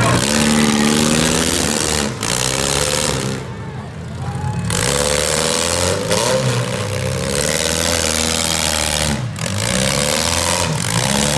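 Several four-cylinder demolition derby car engines revving and running, their pitch rising and falling as the cars push against each other, over a loud steady background wash.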